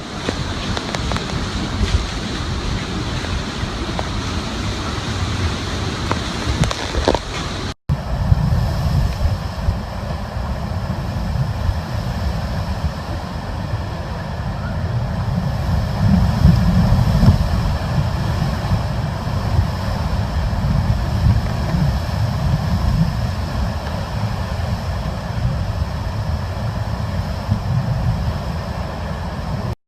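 Hurricane wind blowing hard and buffeting the microphone in a steady heavy rush. About eight seconds in it breaks off for an instant and comes back as a deeper, gustier rumble.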